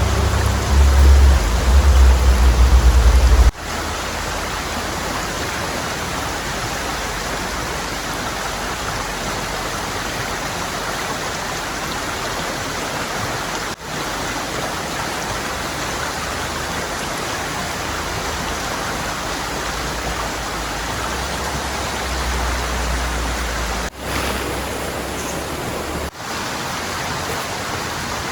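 Steady roar of heavy rain and rushing river water, with a deep rumble for the first few seconds; the sound breaks briefly at a few cuts.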